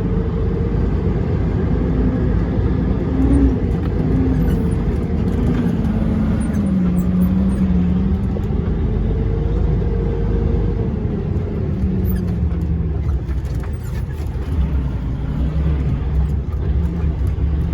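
DAF dump truck's diesel engine running as the loaded truck creeps along slowly, over a steady low rumble; the engine note slowly dips and rises as the driver eases on and off the throttle.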